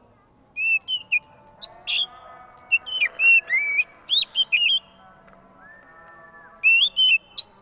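Oriental magpie-robin singing: loud, sharp whistled notes in quick clusters with short gaps, the agitated song used as a lure call. Fainter, lower drawn-out tones sound beneath it.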